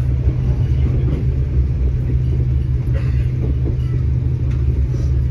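Steady low rumble and drone of a KTM Class 25 train running along the line, heard from inside the passenger carriage.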